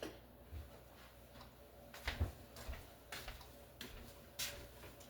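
Faint, scattered clicks and knocks, about half a dozen, from kitchen utensils and dishes being handled while an egg-beating utensil is fetched.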